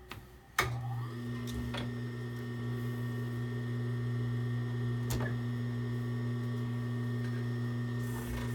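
Nakajima TDU-N62 walking-foot industrial sewing machine running at a steady speed, sewing a sample. A click about half a second in, then a steady hum.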